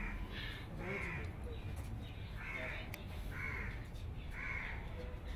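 A bird cawing, about five short harsh calls roughly a second apart.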